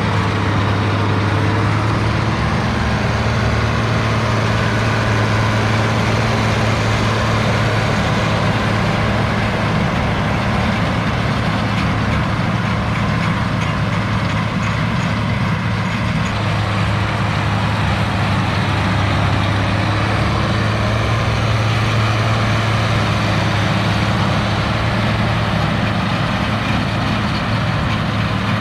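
International Harvester 1086 tractor's six-cylinder turbo diesel engine running steadily, a constant low drone with no change in speed.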